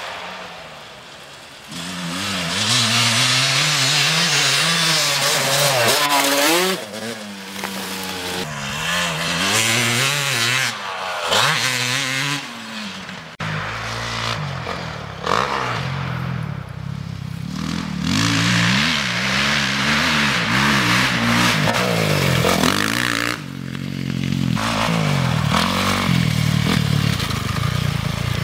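Motocross dirt bike engines revving hard, the pitch climbing and dropping again and again as the throttle is worked and gears change. The sound changes abruptly about halfway through.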